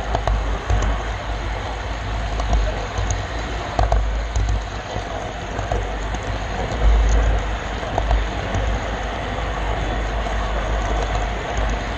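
Model train rolling along the layout track, heard from a camera car riding on it: a steady rolling rumble with scattered faint clicks.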